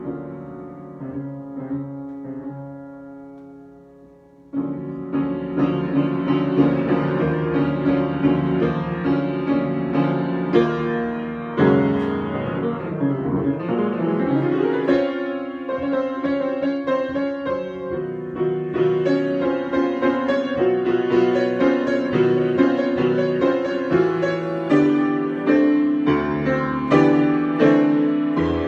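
Solo piano improvisation. The opening notes die away for about four seconds, then the playing comes back in suddenly and loudly and carries on with full, ringing chords.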